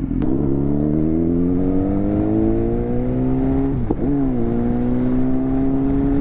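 Straight-piped BMW S1000XR's inline-four engine accelerating hard, its pitch climbing steadily for about three and a half seconds. A quick upshift drops the pitch around four seconds in, then it pulls on at a nearly steady pitch.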